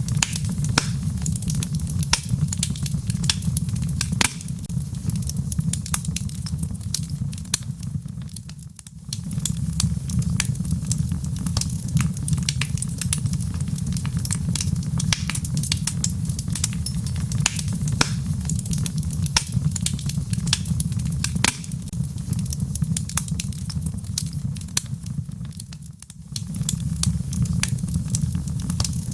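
Wood fire burning in a fireplace: a steady low rumble of flames with frequent sharp crackles and pops from the burning logs. The rumble briefly drops away twice, about nine seconds in and a few seconds before the end.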